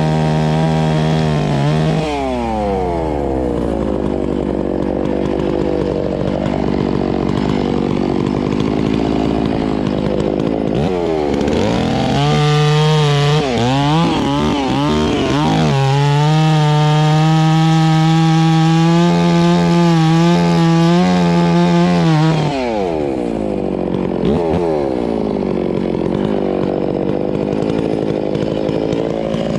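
Two-stroke chainsaw cutting up a log. It runs at high revs, drops to a lower, wavering speed about two seconds in, revs up again around twelve seconds and holds high until about twenty-two seconds, then slows again and revs up once more right at the end.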